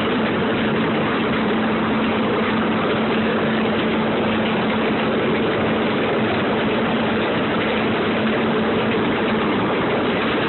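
Small ride-on passenger train moving along: a steady engine drone with a constant hum over rolling noise, the hum fading near the end.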